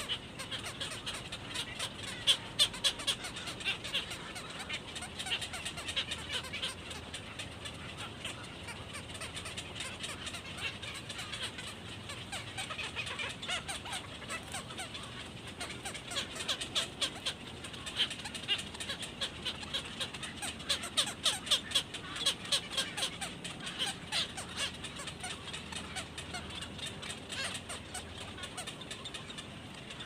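Rapid ticking bird calls, high-pitched and coming in bouts of a couple of seconds at a time, several times over.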